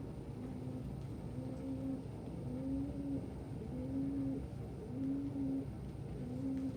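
Male pigeon cooing its call song to his mate: a steady run of short low coos, about one a second.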